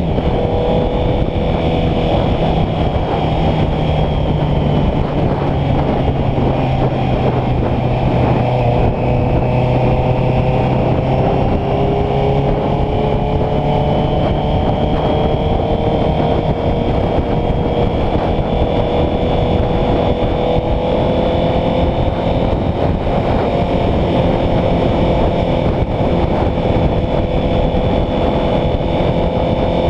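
Honda CBR650F's inline-four engine running at a steady cruise, heard from the rider's position. Its pitch settles a little lower at the start, holds, then climbs slowly over the second half as the bike gathers speed, over a constant rush of wind.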